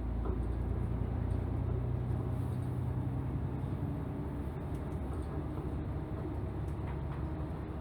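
Route bus (a former Toei city bus) engine and drivetrain heard from inside the cabin while driving: a steady low drone that is loudest for the first four seconds or so, then eases slightly.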